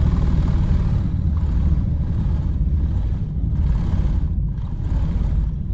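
Steady low rumble of a Boeing 747-400's engines and airflow heard inside the cabin, with a hiss that swells and fades every second or so.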